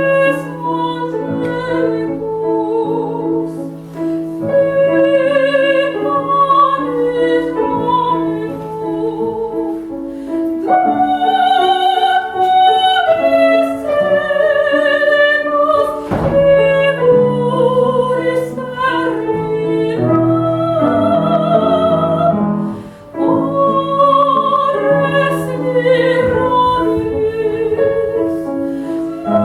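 A female classical singer singing with vibrato, accompanied by grand piano.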